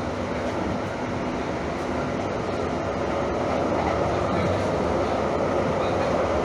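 Train running steadily, with a faint steady hum over the noise; it gets a little louder about halfway through.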